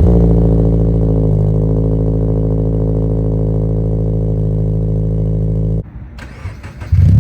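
Subaru BRZ's flat-four boxer engine through an aftermarket exhaust, running at a steady fast idle just after a cold start, loud at first and easing down slightly. The sound cuts off abruptly about six seconds in, and another loud burst of engine sound comes in just before the end.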